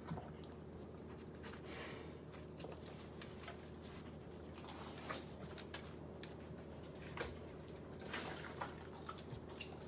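Dog eating lettuce: faint, scattered wet smacking and crunching clicks over a steady low hum.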